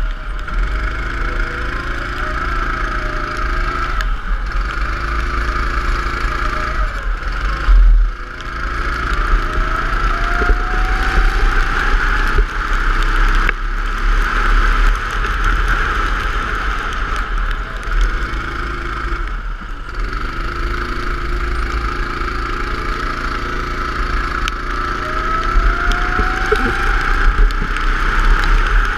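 Go-kart engine running at speed, its note rising in pitch several times as it accelerates and briefly dropping off in between, over a loud hiss and rumble.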